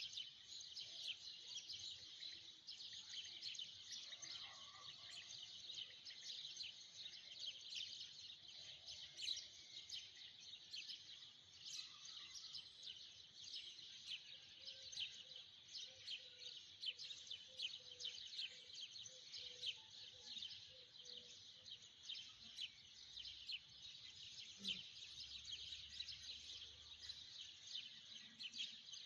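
A dense, steady chorus of rapid high-pitched chirping from wildlife outdoors, faint throughout.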